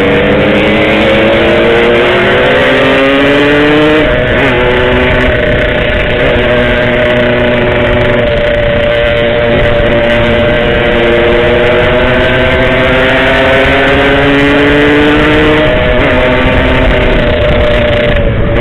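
Yamaha RX-King's 135 cc two-stroke single-cylinder engine pulling the bike under way, the revs climbing slowly through each gear. The pitch drops sharply at upshifts about four seconds in and again about sixteen seconds in.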